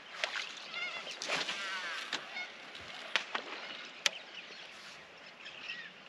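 Birds calling, with a run of calls that waver in pitch in the first two seconds and scattered calls after, over several sharp clicks.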